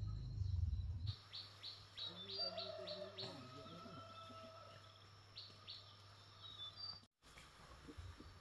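Small birds chirping: quick, high, falling chirps a few a second. A loud low rumble opens the sound and stops abruptly about a second in.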